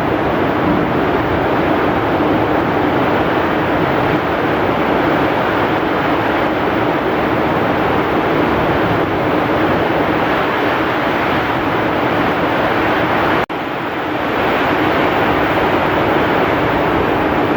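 Heavy rain with strong wind: a loud, steady, dense rush. About three-quarters of the way through, it cuts out for an instant and returns slightly quieter before building back up.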